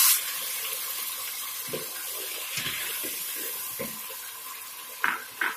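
Tomato and garlic paste sizzling in hot oil with browned onions in a metal cooking pot, a steady hiss. A wooden spoon knocks a few times against the pot and scrapes twice near the end as the masala is stirred.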